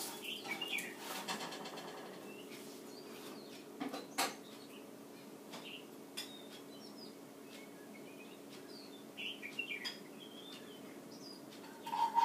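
Faint, short songbird chirps scattered through, over a steady low hum, with a couple of sharp knocks about four seconds in.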